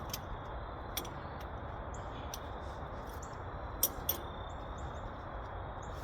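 Small birds chirping, short high chirps repeating over a steady background hiss. Sharp clicks of tools on metal cut in, the loudest two close together about four seconds in.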